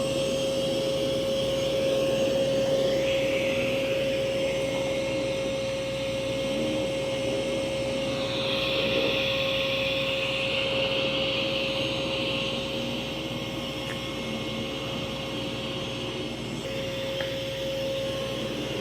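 Mova V50 robot vacuum running on carpet: a steady motor whine over the rush of its suction. The rushing grows louder for a few seconds midway through.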